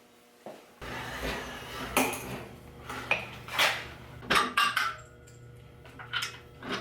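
Irregular sharp metallic clinks and knocks, about a dozen of them, over a steady low hum.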